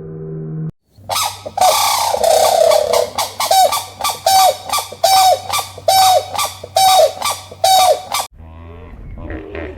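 A farm bird calling loudly and repeatedly: a longer, falling call, then a run of short, sharp, evenly spaced calls that stops abruptly near the end.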